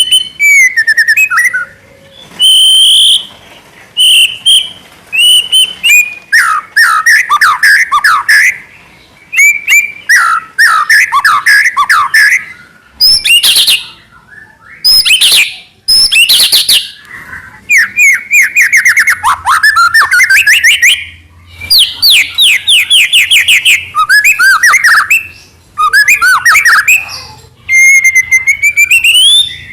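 White-rumped shama (murai batu) singing vigorously: loud, varied phrases of whistles, rapid trills and fast repeated notes, with short pauses between phrases.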